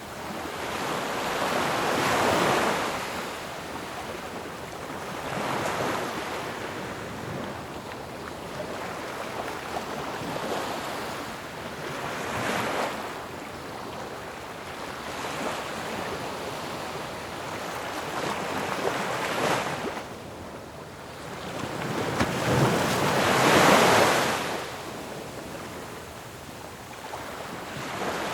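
Ocean waves breaking on a shore in a steady wash, with surges every few seconds as each wave crashes. The largest crash comes near the end.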